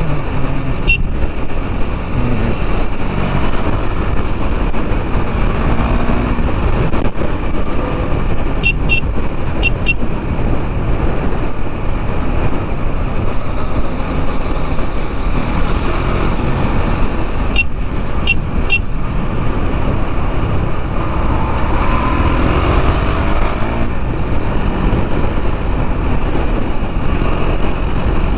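Riding a KTM Duke 390 single-cylinder motorcycle through city traffic: a steady, loud rush of wind buffeting over the engine's running. Two brief clusters of short horn beeps from traffic sound about nine and about eighteen seconds in.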